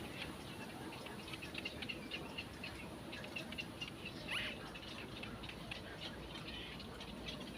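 Birds chirping: many short, high chirps in quick succession, with one note sliding down in pitch about four seconds in.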